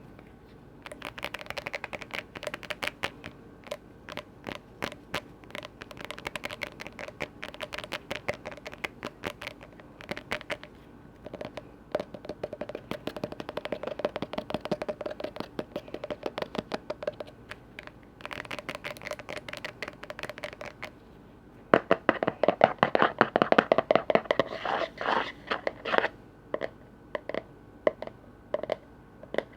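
Rapid tapping and scratching on container lids: a quick, uneven run of many small clicks and taps, growing louder for a few seconds past the two-thirds mark.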